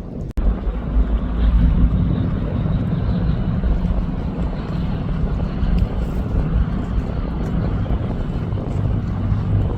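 A steady low engine drone with wind buffeting the microphone, starting abruptly just after a brief break near the start.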